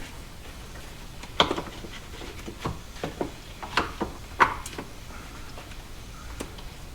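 Light knocks and clicks of hand tools and small parts being handled during mechanical work: a cluster of about six sharp taps in quick succession, then one more near the end.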